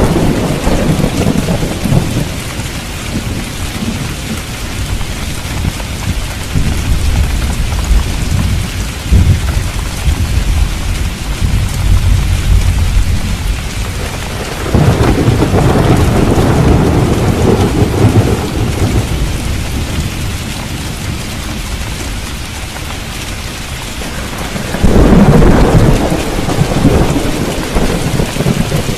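Steady heavy rain with rolling thunder underneath; the thunder swells louder about halfway through and again near the end.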